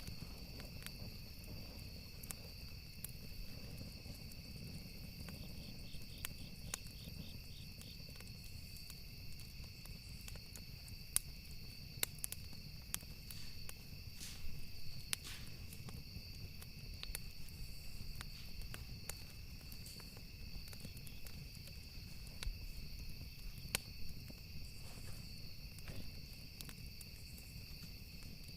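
Campfire ambience: burning wood crackling in scattered sharp pops over a low, steady rumble of flames. A steady high-pitched insect chirring runs behind it.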